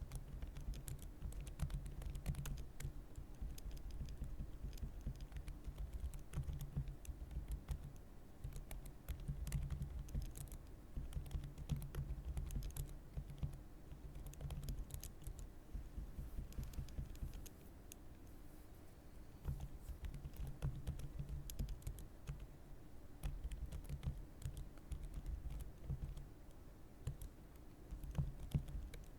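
Continuous typing on a computer keyboard: quick, irregular keystrokes clacking one after another, with a short pause about two-thirds of the way through.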